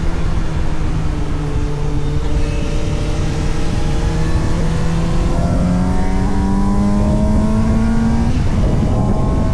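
Suzuki GSX-S750 inline-four motorcycle engine heard from onboard, over wind rush. The engine note eases slightly, then climbs steadily under acceleration through the middle, and drops away sharply about eight seconds in.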